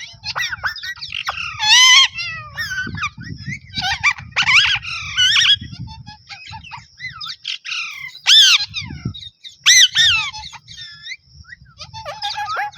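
Pet parrot calling and squawking over and over in short, harsh, shrill calls that swoop up and down in pitch, with a low rumble underneath.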